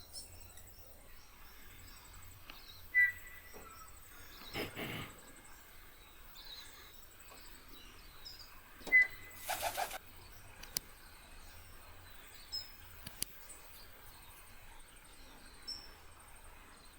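Birds calling and chirping, with two loud, short high notes about three and nine seconds in and two brief whooshing noises about five and ten seconds in.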